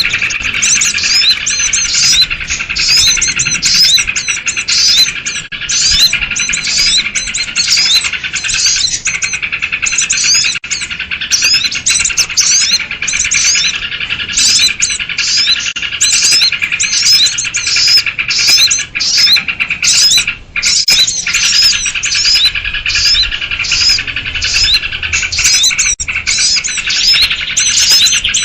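A dense chorus of many small birds chirping and chattering at once, with sooty-headed bulbuls (kutilang) among them, as used in a bird-lure recording to draw in small wild birds. The quick overlapping chirps and short whistles run on without a break, dipping only briefly about twenty seconds in.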